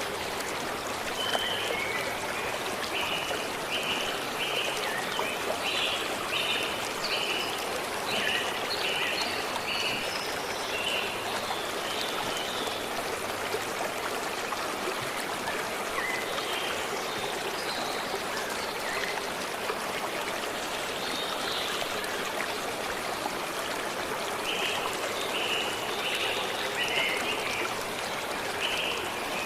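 A forest stream running steadily over stones. A bird sings a run of short, evenly spaced notes from about a second in until about eleven seconds, then again from about twenty-four seconds on.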